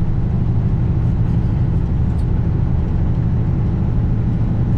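2021 Kenworth W900 semi truck running at a steady pitch while driving, a constant low engine drone with road noise.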